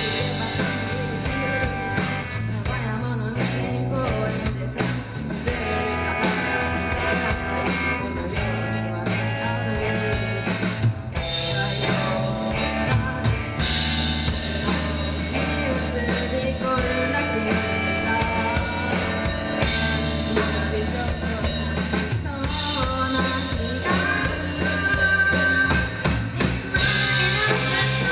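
Three-piece rock band playing live: electric guitar, bass guitar and drum kit. About fourteen seconds in the drums open up into steady cymbal crashes over the bass and guitar.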